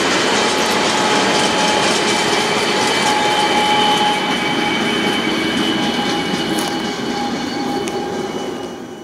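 Train of flat wagons hauled by class 77 diesel locomotives rolling past: steady rumble of wheels on the rails with thin steady squealing tones. It fades from about four seconds in and drops away at the end.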